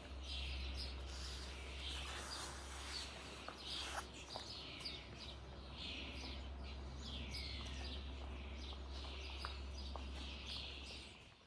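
Birds singing: a run of repeated, downward-sweeping chirps over a steady low rumble.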